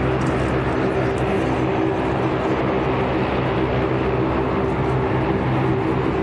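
Military aircraft engines running steadily: a loud, even rush with a steady low multi-tone hum.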